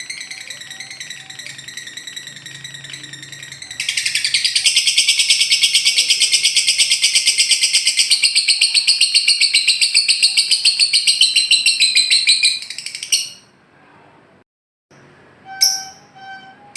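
Lovebird giving its 'ngekek': a long, very rapid chattering trill that starts about four seconds in, runs for about nine seconds and cuts off abruptly. A few short sharp calls follow near the end.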